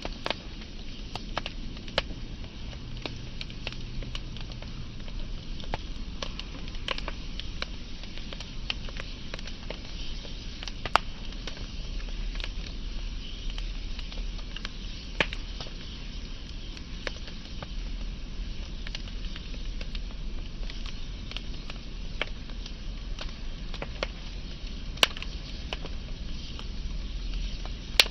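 Wood fire burning: a steady hiss with frequent irregular crackles and a few louder sharp pops of the burning wood.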